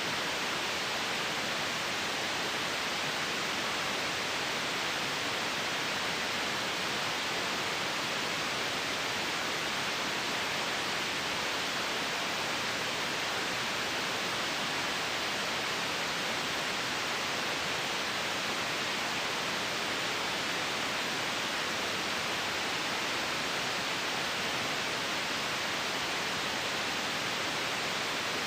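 Steady white noise: an even, unbroken hiss that does not change at all.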